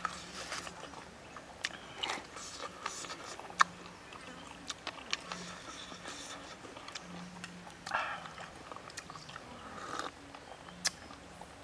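Close-up eating sounds: chewing with scattered small clicks and crunches, and a short sip from a small ceramic cup near the end.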